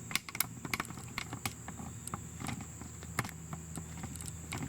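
Irregular metal clicks and knocks as a motorcycle's rear brake caliper is handled and worked free of its mounting. A steady low hum and a thin high whine run underneath.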